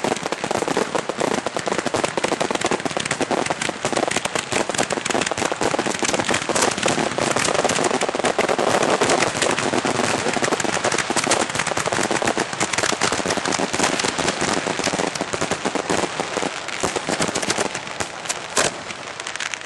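Fireworks fired close by in a dense, continuous barrage: a rapid crackle of overlapping reports with no break, the many shells and crackling stars of a multi-shot display.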